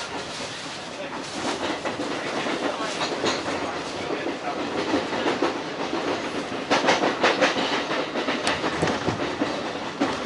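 Hanshin 1000-series electric train running at speed between stations in a heavy downpour: a continuous rushing noise with irregular sharp clicks from the wheels over the rail joints, thickest a little after halfway.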